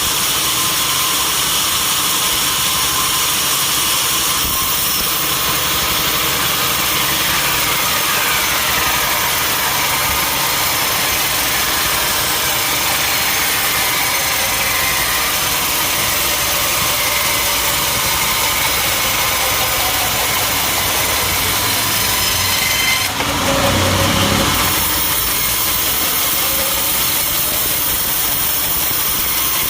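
Sawmill saw running steadily with a constant machine noise and a high whine that drifts slightly in pitch. A brief deeper burst comes about 23 seconds in.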